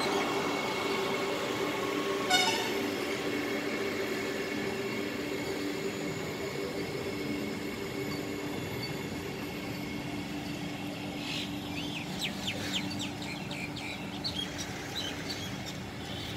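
Vande Bharat Express electric trainset passing close by on the rails, with steady running noise and a low hum, fading slowly as it moves away. A brief sharp sound comes about two seconds in, and birds chirp for a moment past the middle.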